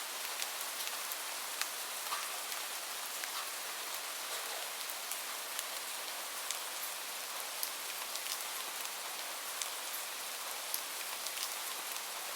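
Steady rain: an even hiss with many scattered sharp ticks of individual drops.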